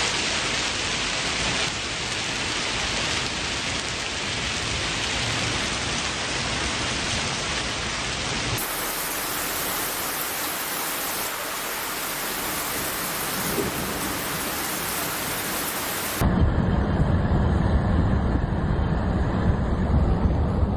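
Heavy rain pouring down in a steady hiss during a thunderstorm, over a few cut-together clips. About three-quarters of the way in it turns louder, with a heavy low rumbling noise.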